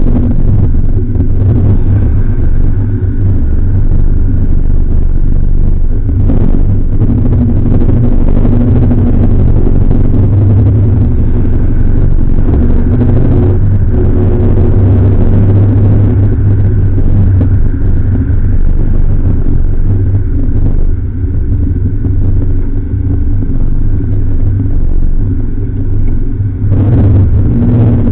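Jowett Jupiter's flat-four engine running steadily as the open car drives at speed, mixed with wind and road noise. The engine note eases off in the last few seconds as the car slows.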